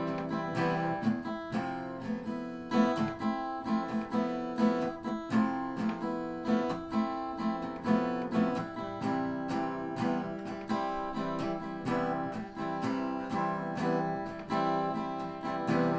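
Acoustic guitar strummed in a steady rhythm, chords ringing without a voice.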